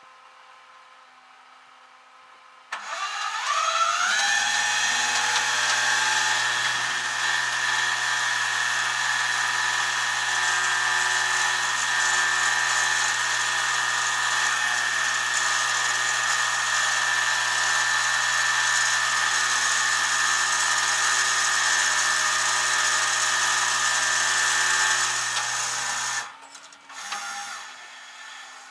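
A power tool's motor spins up with a quickly rising whine, runs at a steady high speed for about twenty seconds, then stops abruptly.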